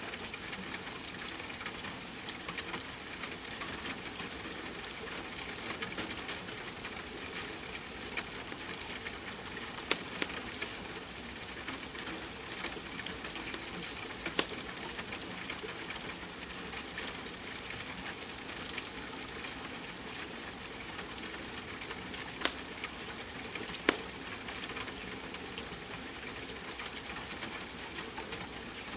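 Steady rain hiss mixed with the crackle of a wood fire, with a few louder sharp pops from the burning logs.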